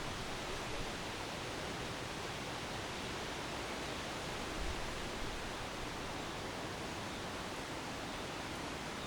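Residential courtyard ambience: wind through trees making an even, steady hiss, with a brief low bump about halfway through.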